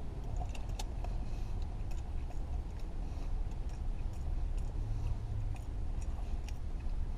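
Light crinkling and clicking of a fast-food sandwich wrapper being handled and opened, over the steady low rumble of a car idling.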